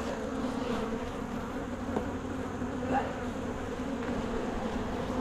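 Honeybees buzzing in a swarm around an open hive: a steady, even hum.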